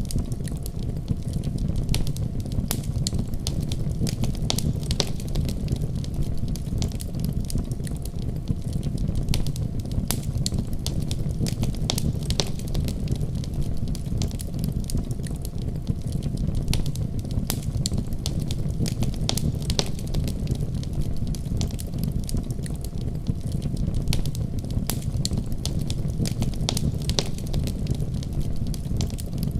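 Fireplace fire burning, with a steady low rumble of flames and frequent sharp crackles and pops of burning wood.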